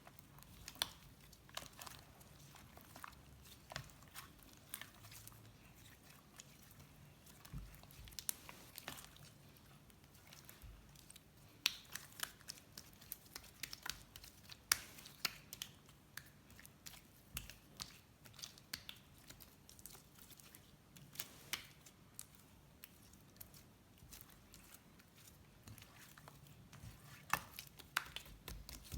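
Slime being handled, squeezed and stretched, giving irregular small sticky clicks and crackles.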